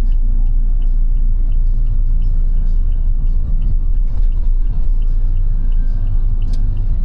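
Steady low rumble of a car's road and engine noise heard inside the cabin in slow city traffic, with a faint high tick repeating about three times a second.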